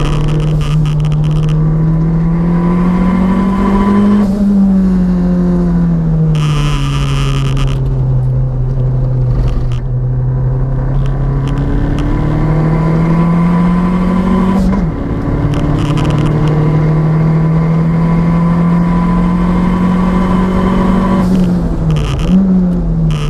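Renault 5 GT Turbo's turbocharged 1.4-litre four-cylinder running hard under load, its note climbing slowly and falling away. The revs drop sharply about fifteen seconds in and again near the end, with a burst of hiss about six seconds in. The turbo's wastegate actuator is wired shut.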